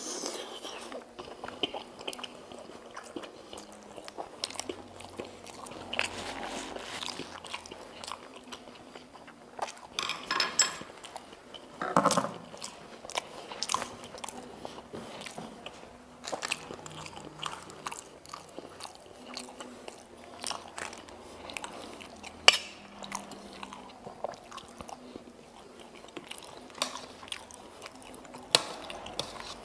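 Close-miked eating: a man biting into and chewing meatballs and Indonesian chicken noodles (mie ayam), with wet mouth sounds and many small clicks. A single sharp click stands out about 22 seconds in.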